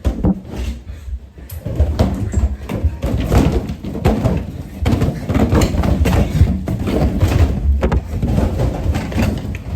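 Many inflated rubber balloons being knocked about, a dense, continuous jumble of thumps and bumps as they hit each other and the players.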